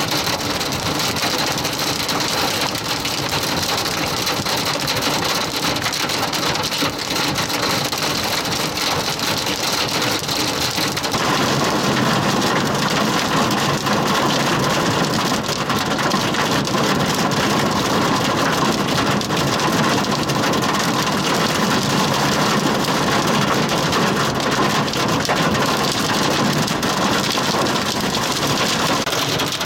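Heavy thunderstorm rain pelting down steadily, a dense patter of drops striking a surface. About eleven seconds in the sound turns fuller and lower.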